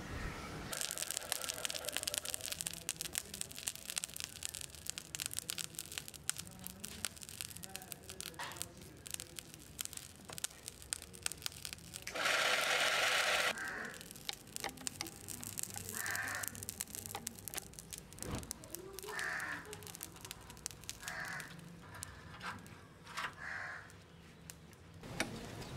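Charcoal fire crackling in a small brick forge as a clay-coated knife blade heats for hardening, with a loud hiss lasting about a second and a half halfway through. Several short calls sound in the background in the second half.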